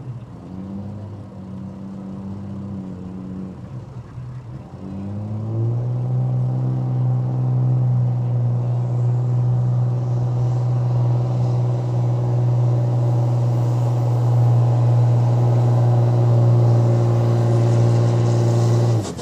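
Pulling truck's engine on a pull: it runs at a lower note for the first few seconds, then revs up about five seconds in and holds a loud steady high-rpm note as it drags the weight sled down the track. The engine cuts off abruptly near the end, when the run is over.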